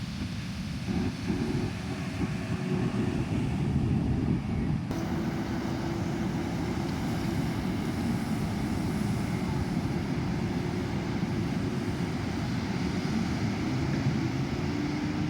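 A fishing boat's engine running steadily, its drone shifting a little in pitch, over the rush of surf and wind.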